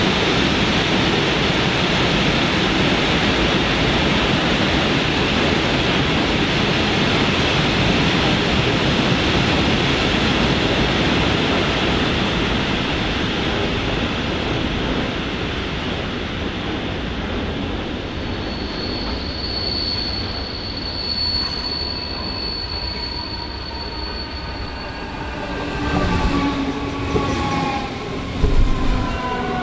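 An electric train running past on the track with a steady, loud rolling noise. Later a thin high squeal holds for several seconds. Near the end several whining tones fall in pitch together.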